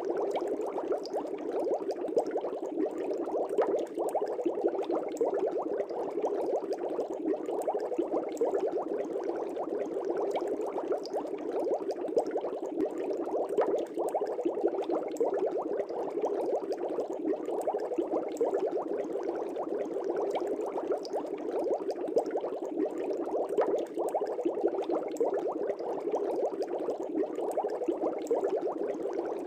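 Steady bubbling of air from an aquarium air stone rising through the tank water, a dense stream of small pops that goes on without a break.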